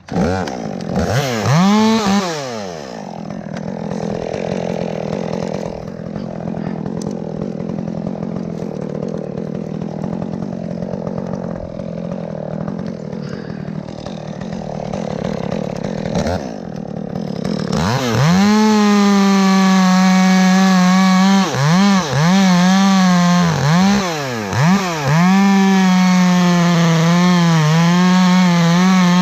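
Two-stroke chainsaw revving briefly, running at lower speed for a while, then held at full throttle from about 18 seconds in, with several quick drops in speed, before it winds down at the end.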